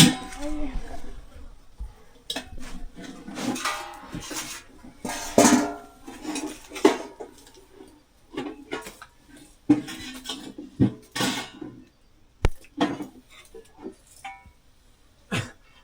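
Metal dishes and utensils clattering and clinking in irregular knocks, a few of them ringing briefly.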